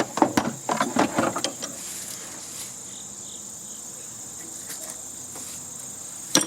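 Rattling and knocking of wires and metal parts being handled on a heating and air-conditioning unit, a quick cluster in the first second and a half and a couple more knocks near the end. A steady high-pitched insect chirring runs underneath.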